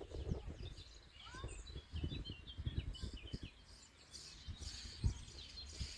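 Songbirds chirping, a quick run of short high notes in the middle, over irregular low rumbling.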